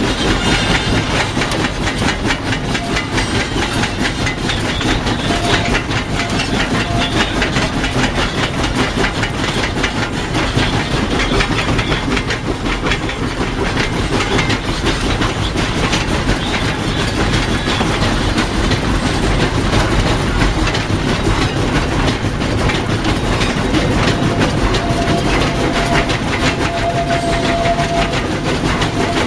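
Cab of narrow-gauge 4-6-0 steam locomotive No. 12 under way: a steady rumble with rapid, continuous clatter of wheels and running gear on the rails. A faint steady tone comes and goes, about five seconds in and again near the end.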